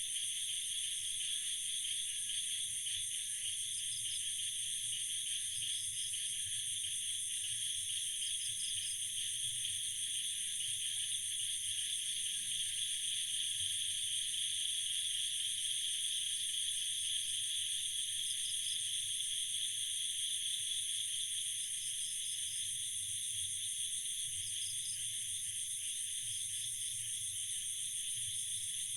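Night insect chorus: dense, steady shrill trilling at several high pitches, with short chirps standing out every couple of seconds.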